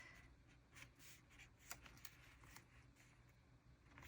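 Near silence with faint paper rustling and a few light ticks, from stickers and sticker sheets being handled on the page.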